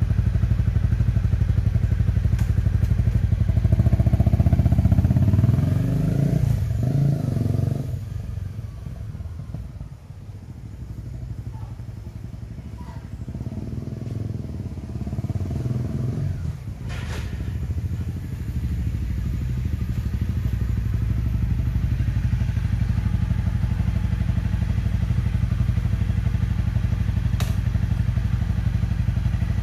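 Honda CRF250 Rally's single-cylinder engine running. It pulls away and fades about eight seconds in, swells back, then idles steadily through the second half.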